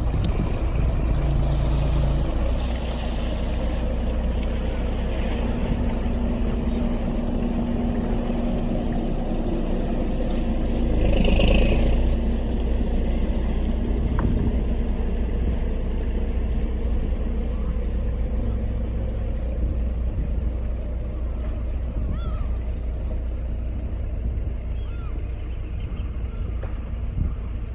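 Squid-fishing boat's engine running steadily as the boat moves across the harbour, with a louder swell about eleven seconds in.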